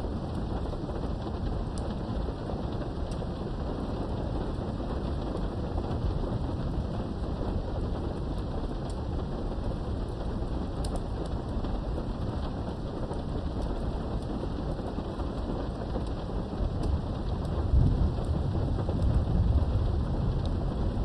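Steady rain falling with scattered ticks of individual drops. A low rumble of thunder swells up near the end.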